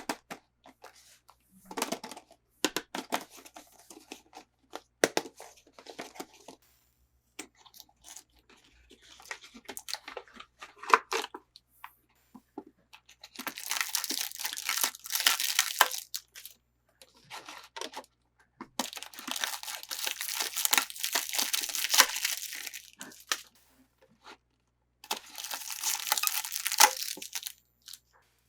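Toy packaging being handled and torn open by hand: scattered taps and light handling noises in the first half, then three long stretches of tearing and crinkling in the second half.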